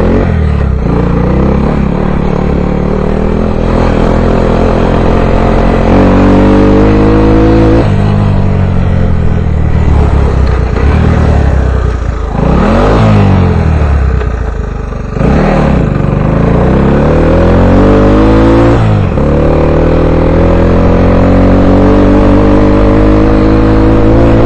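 Small Honda ATC three-wheeler engine, still cold, running under load on a ride. Its pitch climbs and drops several times as it accelerates, eases off and changes gear.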